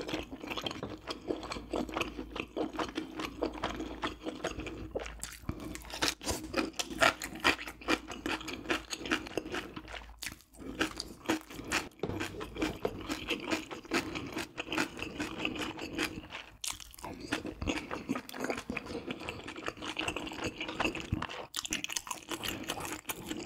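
A person chewing and eating spicy braised pork ribs with rice cakes and mushrooms close to the microphone. It is a dense run of small clicks and mouth noises, with brief pauses about ten and sixteen and a half seconds in.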